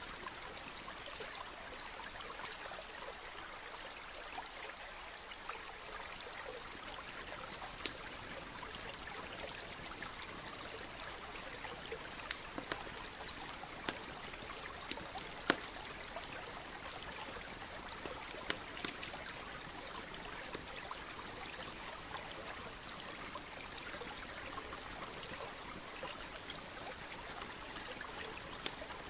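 Campfire crackling, with scattered sharp pops, over the steady rush of a nearby stream.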